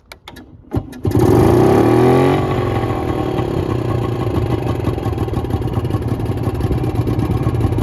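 1957 TWN Cornet's two-stroke motorcycle engine cold-starting on choke: a few clicks of the starting attempt, then about a second in it fires, revs up and back down briefly, and settles into a steady fast idle.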